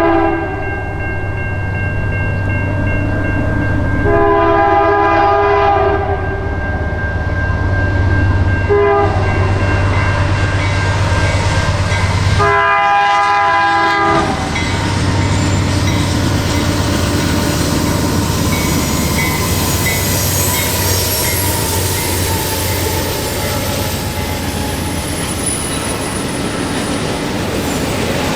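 Locomotive air horn sounding the grade-crossing signal: two long blasts, a short one, then a final long one, as the train approaches a crossing. The train then rolls past with a steady rumble of wheels on rail and a faint high squeal.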